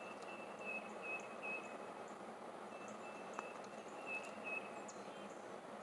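Insects chirping, a run of short, high, evenly repeated calls over a steady background hiss.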